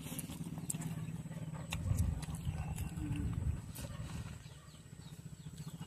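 Close-up chewing and lip-smacking of a mouthful of instant ramen noodles: short wet clicks over a low, steady rumble.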